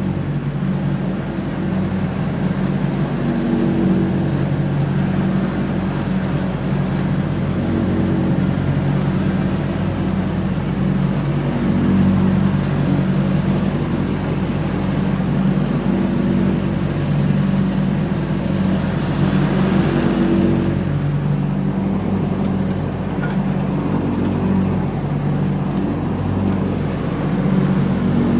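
John Deere X304 lawn tractor's engine running steadily under mowing, its note rising and falling slightly every few seconds.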